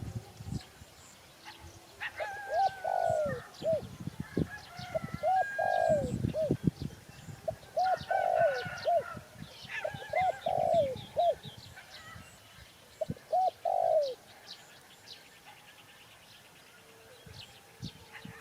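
Spotted dove cooing, about five phrases of curved coos between about two and fourteen seconds in. Smaller birds chirp and trill faintly higher up, and the last few seconds are quieter.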